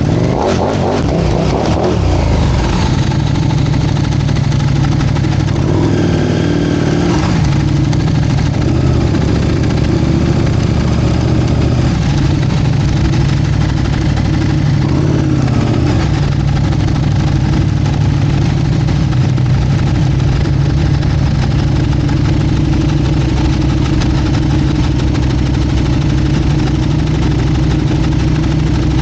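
Motorcycle engine running steadily, mostly at idle.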